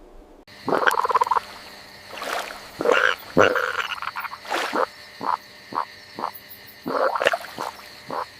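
Frog croaking: a run of about a dozen croaks of uneven length, starting abruptly about half a second in. A faint steady high tone sounds behind them.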